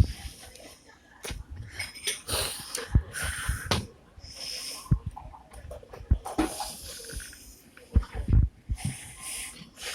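A person blowing hard into a balloon, trying to inflate it: several breathy, wheezy puffs with short pauses between them, and a few low thumps.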